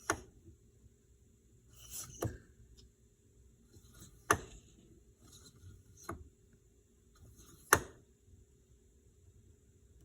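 Freshly resealed power steering cylinder being tested by hand: five sharp knocks, about every two seconds, with short hisses of air whistling through its ports between them. The seals are holding.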